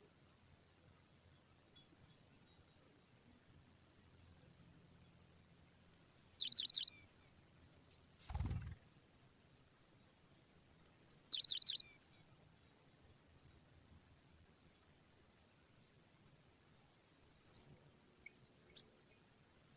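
Small birds chirping: many faint, quick high chirps, with two louder call bursts about six and eleven seconds in. A single low thump comes about eight seconds in.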